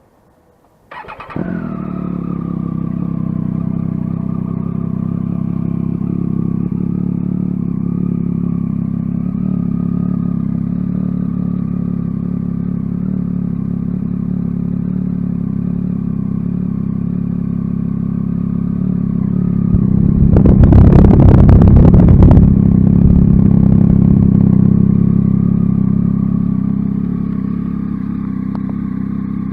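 Triumph Tiger 800 XCx's three-cylinder engine, breathing through a Danmoto aftermarket exhaust, starting about a second in, catching at once and then idling steadily. About twenty seconds in it gets louder for a few seconds, then settles back to idle.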